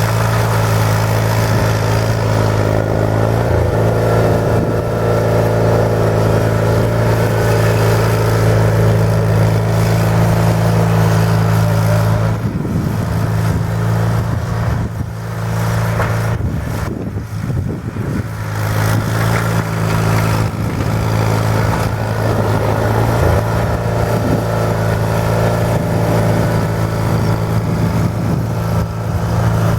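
John Deere 420 garden tractor's twin-cylinder engine running steadily while plowing snow. About twelve seconds in, its steady note drops away and turns uneven for several seconds, then settles back to the same steady running.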